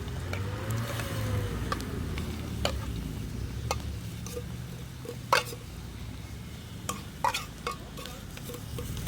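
Food sizzling in a cooking pot while a metal spoon stirs it, with scattered sharp clinks of the spoon against the pot over a steady low rumble.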